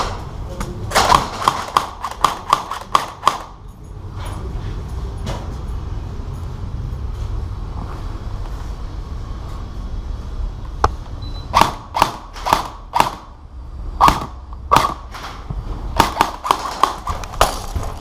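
Airsoft guns firing: runs of quick, sharp pops, one run about a second in and a longer one in the second half, over a steady low rumble.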